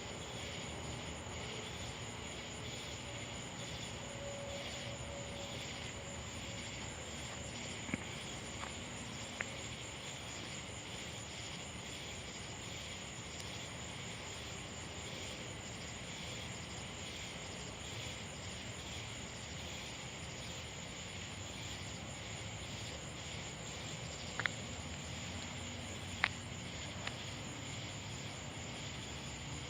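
Crickets chirping in a steady high trill, over a faint low hum. A few short clicks come through, about eight and nine seconds in and twice more near the end.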